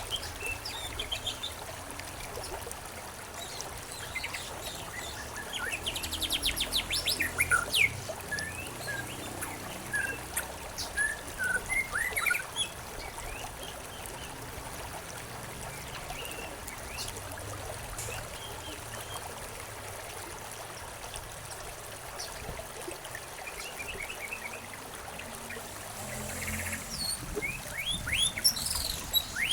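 Several songbirds chirping and trilling over a small stream's steady trickle, with bursts of song a few seconds in and again near the end.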